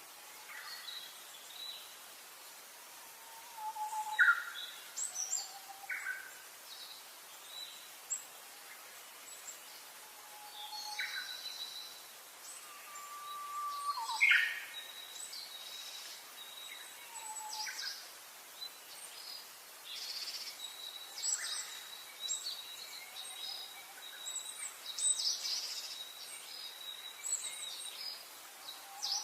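Wild birds singing and calling in turn: short chirps and whistled notes, some sliding in pitch, over a faint steady hiss. A thin, steady high note sounds on and off through the second half.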